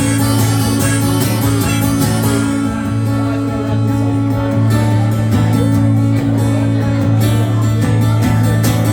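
Instrumental song intro: an acoustic guitar strummed in a steady rhythm over sustained low notes.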